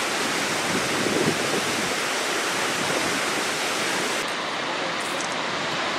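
Goðafoss waterfall rushing steadily, an even wash of falling water with no break.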